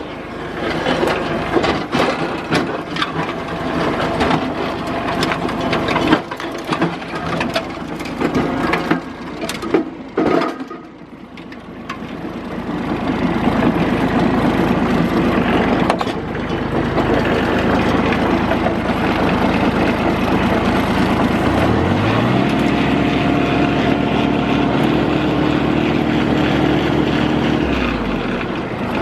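Kubota tractor engine running, with a clatter of knocks and clicks for the first ten seconds or so. About two-thirds of the way in, the engine speeds up with a rising pitch, holds steady, and drops back near the end.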